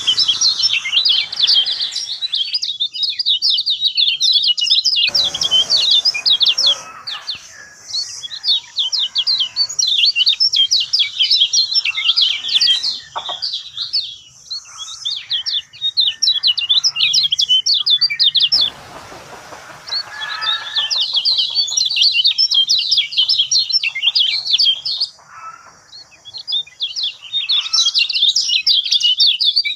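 Kecial kuning singing a rapid, high twittering song in long phrases separated by short pauses. It is a lure (pancingan) recording meant to prompt a silent bird to start singing.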